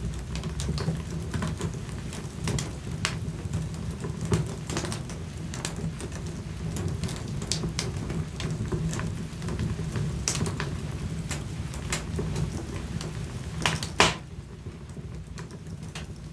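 Wood fire crackling in a fireplace: irregular snaps and pops over a low steady rumble, with one loud pop near the end.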